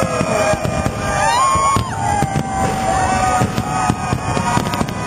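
Aerial fireworks shells bursting one after another in a finale, a rapid run of sharp bangs with gliding, whistling tones among them.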